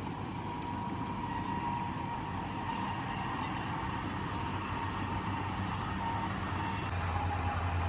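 A bird gives a quick series of high, thin notes, about six a second, for roughly two seconds midway. Under it runs a steady low hum.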